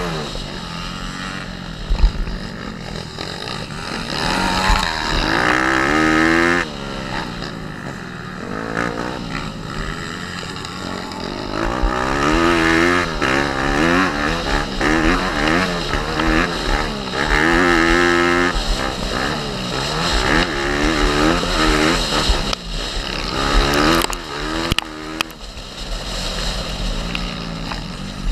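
Pit bike's small single-cylinder four-stroke engine revving up and dropping back over and over as it is ridden hard round a motocross track, climbing through the gears between throttle-offs. A sharp thump about two seconds in.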